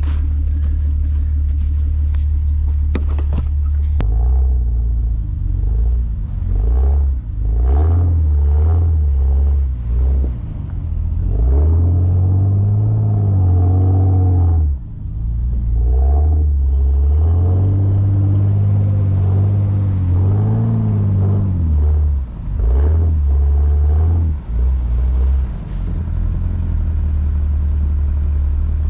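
Off-road 4x4 engine being revved up and down over and over as the vehicle works through deep snow, over a constant low rumble. Sharp clicks and knocks in the first few seconds, then the revs settle back to a steady rumble near the end.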